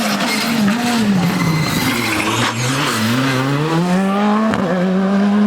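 Rally car engine coming off the throttle, then accelerating hard with the pitch climbing steadily, a brief break about four and a half seconds in as it shifts, then holding a steady high note.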